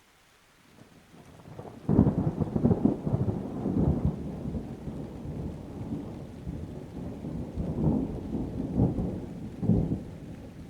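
Thunder: a rumble builds about a second in, breaks into a sharp loud clap about two seconds in, then rolls on in several peals that fade near the end, over a faint hiss of rain.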